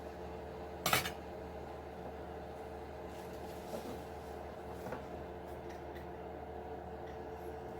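Steady hum with several fixed pitches from a running appliance or machine. Over it, small parts are being handled: one sharp click about a second in, then two softer clicks.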